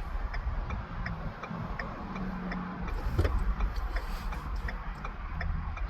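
Tow truck's dashboard indicator clicking steadily about twice a second over the low rumble of the truck's engine and road noise inside the cab.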